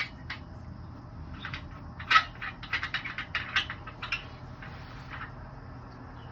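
Hose adapters of a backflow test kit being fitted onto a backflow preventer's test cocks: a quick run of small clicks and clinks from about two seconds in, lasting about two seconds, over a steady low hum.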